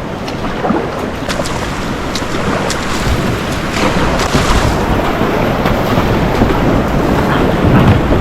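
Loud, steady rush of river water with wind buffeting the microphone, low rumbling throughout and occasional sharp splash-like clicks, growing slightly louder toward the end.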